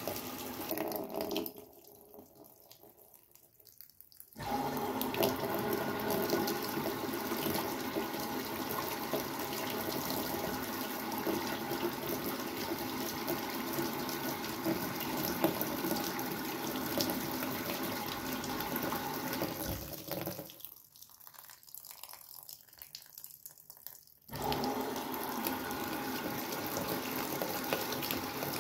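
Water running steadily in a Brastemp Sexto Sentido 8 kg washing machine. It stops twice for three or four seconds, about two seconds in and about twenty seconds in, and starts again abruptly each time.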